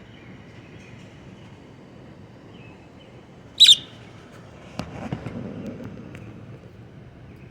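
A pet bird gives a single loud, sharp contact call that sweeps downward in pitch: distance calling to wild birds. About a second later comes a click and a softer, lower noise.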